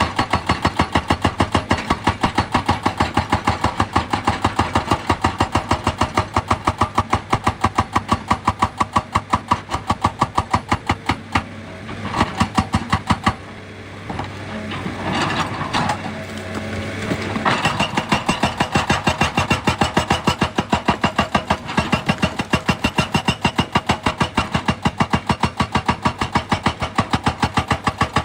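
Excavator-mounted hydraulic rock breaker hammering rock in rapid, regular blows, several a second, over the running engine. The blows stop briefly about halfway through, then start again.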